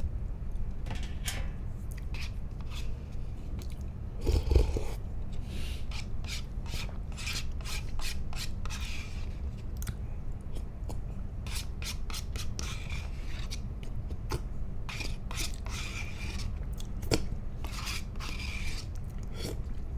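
Close-miked eating noises: crisp crackling and scraping as food is bitten and handled, with a louder thump about four and a half seconds in, over a steady low hum.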